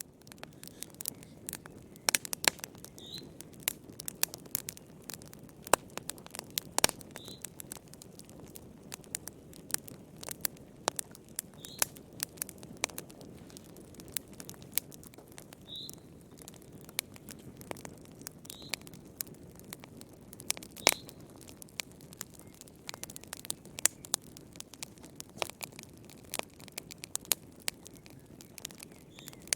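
Wood fire burning in a fireplace: irregular sharp crackles and pops, some loud, over a steady low hiss of the flames. Faint short high squeaks come every few seconds.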